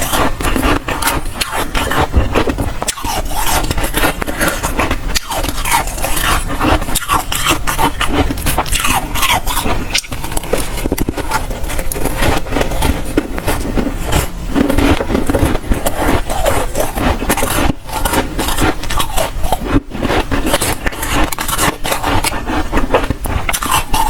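Close-up crunching of dry, soft freezer frost ice being bitten and chewed, a dense run of crisp crackles that goes on throughout.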